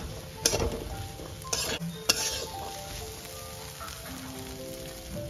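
Boiled chickpeas sizzling as they fry in a wok on medium-high heat, stirred with a metal spatula that scrapes and clanks against the pan several times in the first two seconds or so, then steady sizzling.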